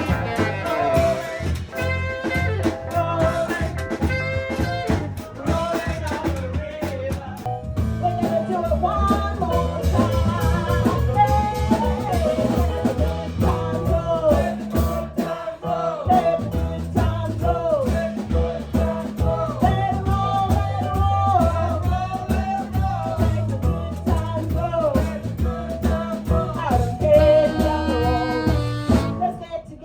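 A live blues band playing, with drums keeping a steady beat under a bass line and a lead melody.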